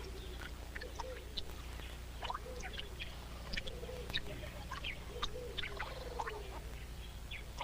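Water dripping into a pool in many small, irregular plinks, typical of tadpoles dripping out of the bottom of a tree frog's dissolving foam nest, with faint wavering animal calls and a steady low hum behind.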